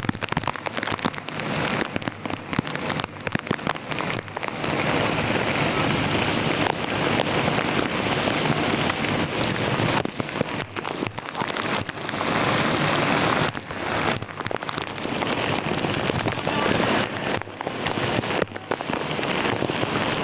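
Heavy rain falling steadily, a dense hiss with brief dips in level every few seconds.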